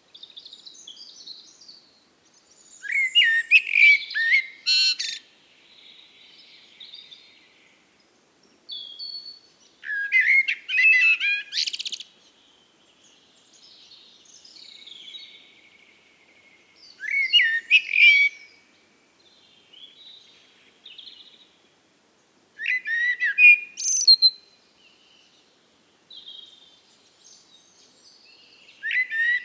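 Songbird song: loud, intricate phrases of about two seconds repeated roughly every six to seven seconds, with softer twittering calls between them.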